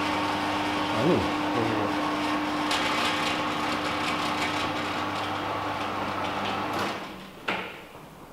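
A steady mechanical hum with a low drone that cuts off about seven seconds in, followed by a single sharp knock.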